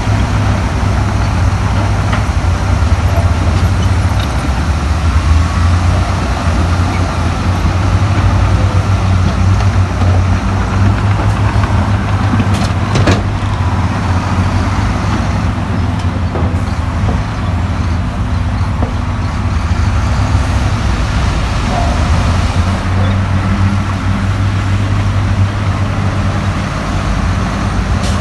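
Heavy diesel earthmoving machinery running steadily with a deep low rumble, with a couple of sharp clanks about halfway through.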